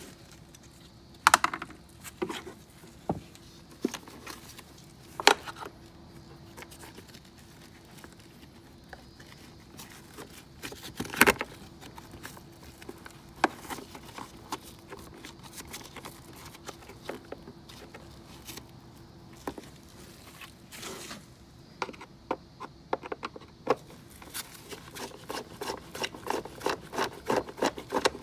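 Hand tools and parts being handled: scattered knocks, clicks and scrapes, then a quick run of clicks in the last few seconds, with a faint steady hum underneath.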